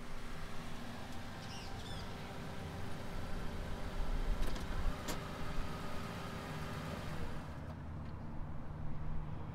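Low, steady rumble of a car engine running, with a faint steady tone that stops about seven seconds in. A bird chirps briefly about two seconds in, and there is a sharp click about five seconds in.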